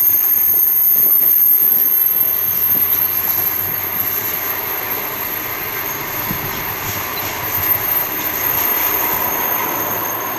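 Stainless-steel passenger carriages rolling past on a curve, their wheels rumbling on the rails. A steady high-pitched squeal from the wheels on the curve runs over the rolling noise. The sound slowly fades as the train pulls away.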